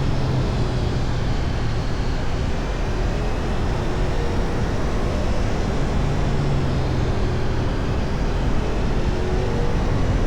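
Ducati Multistrada V4 engine running at a steady cruise, mixed with heavy wind and road rush from riding.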